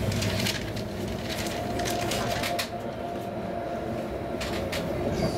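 Interior running noise of a Helsinki Sm5 (Stadler FLIRT) electric commuter train in motion: a steady low rumble with a constant hum. Sharp clacks of the wheels over the track come several times.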